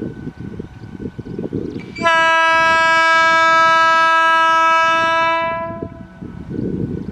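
Indian Railways WAG-12B electric locomotive's horn, sounded in one steady blast of about four seconds that begins about two seconds in and fades out. Low rumbling noise comes before and after it.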